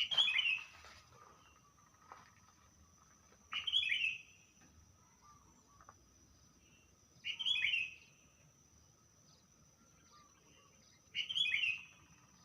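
A songbird repeating the same short song phrase four times, about every three and a half to four seconds, each a quick cluster of downward-sweeping whistled notes. A faint steady high-pitched tone runs underneath.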